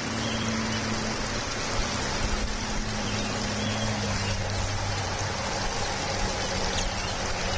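Steady hiss of rain falling, over a low steady hum.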